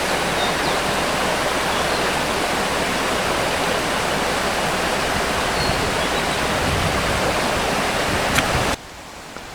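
Mountain stream rushing, a loud, steady wash of water that drops suddenly to a much lower level near the end.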